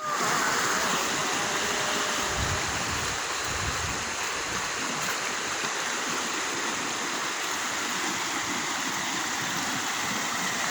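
Steady rush of flowing water, like a stream running full.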